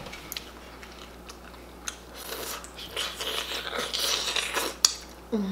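Close-up open-mouth chewing and lip smacking while biting into chicken eaten by hand, done messily on purpose. A few wet clicks come early, a denser crackling run of chewing starts about two seconds in and lasts a couple of seconds, and one sharp smack comes near the end.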